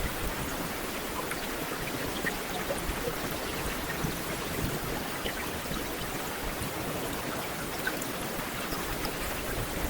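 Heavy rain falling steadily, an even hiss with scattered individual drop ticks.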